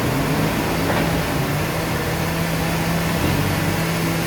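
Sawmill machinery running with a steady low hum.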